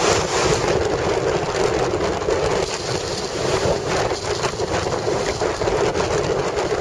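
Storm-force wind gusting hard over the microphone: a loud, continuous rush that keeps swelling and easing.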